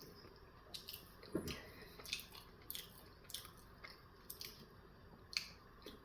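A person chewing a steak, egg and cheese bagel sandwich close to the microphone: irregular soft mouth clicks and smacks, with a stronger, lower mouth sound about a second and a half in.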